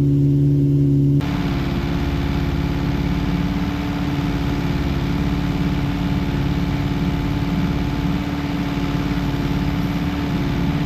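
Rebuilt 1311cc A-series four-cylinder engine running steadily at a fast idle while it warms up, with the choke still slightly out. About a second in, the sound changes abruptly to a noisier, busier running note, which then holds steady.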